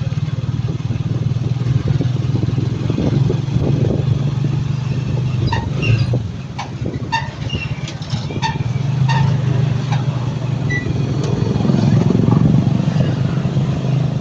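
Motorcycle engine running steadily on the move. Partway through comes a run of short, sharp clicks, about two a second, lasting a few seconds.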